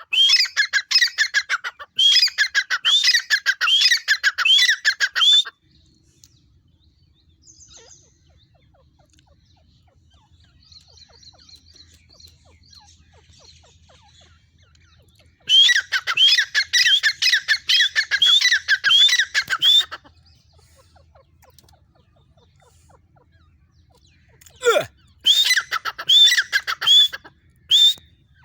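Female grey francolin calling in three bouts of rapid, shrill, rising notes, the first two lasting about five seconds each and the last shorter and broken. A faint low hum fills the gaps between bouts.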